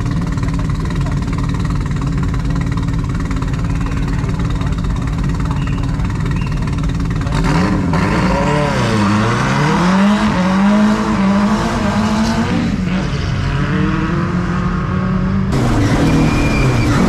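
Racing Mini Clubman's four-cylinder engine running at a steady fast idle, then revved up and down several times from about halfway through. Near the end the sound cuts to the same engine heard from inside the stripped cabin, running at higher revs.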